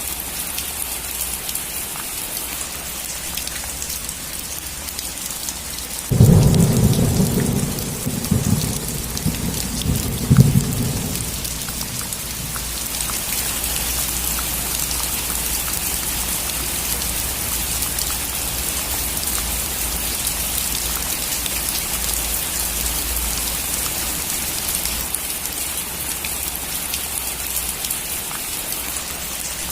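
Steady rain falling on a roof, with a sudden thunderclap about six seconds in that rumbles low for about five seconds, with a second loud crack near the end of the rumble. The rain runs slightly heavier after the thunder.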